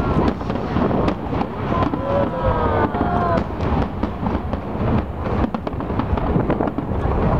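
Aerial fireworks display: shell bursts, bangs and crackles following one another in quick succession over a continuous low rumble.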